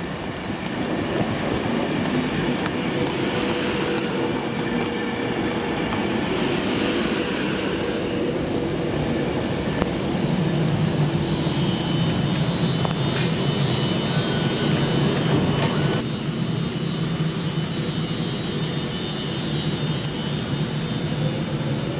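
Virgin Trains Class 390 Pendolino electric train running along the platform, its wheels rumbling on the rails. A steady high whine joins in about ten seconds in.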